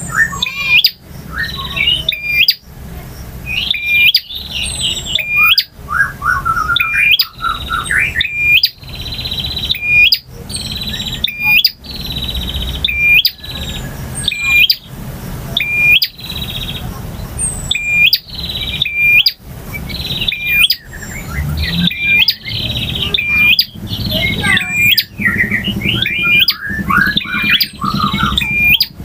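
Male bar-winged prinia (prenjak) singing: fast, high-pitched chirping phrases repeated every second or two, over a low steady hum.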